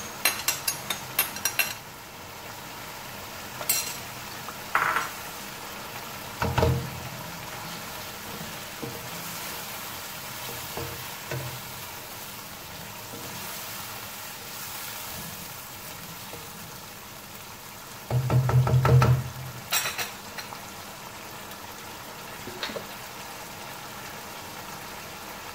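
Chicken pieces frying in oil and tomato masala in a nonstick wok, a steady sizzle, while a wooden spoon stirs and scrapes through it. Quick clicks in the first couple of seconds, and two short dull knocks, one about a third of the way in and one about three quarters of the way in.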